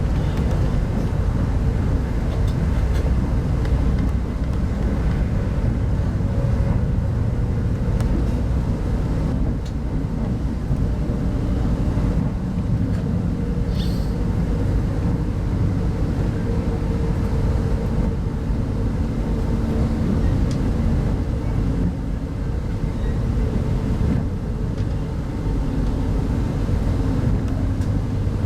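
Inside a 25T soft-seat passenger coach running along the line: a steady low rumble of wheels and running gear on the rails, with a faint steady hum and a few light clicks.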